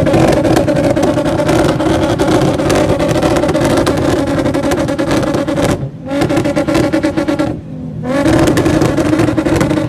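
Car engine revved hard and held at steady high revs, with loud exhaust. It drops off briefly twice, about six seconds in and again just before eight seconds, then climbs back up.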